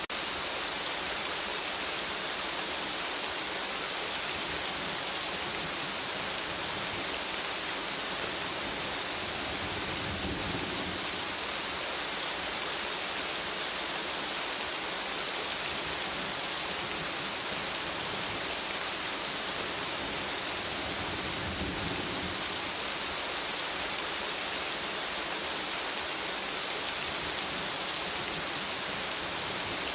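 Steady rain falling on forest foliage, an even hiss, with two brief low rumbles, one about a third of the way in and one about two-thirds of the way in.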